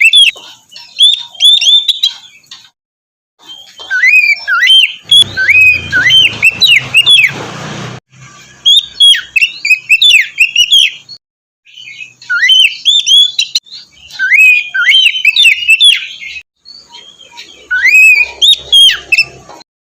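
Oriental magpie-robin (kacer) singing: bursts of fast, slurred whistles and chirps, broken by a few abrupt short silences where the recording is cut. A low noise runs under the song from about five to eight seconds in.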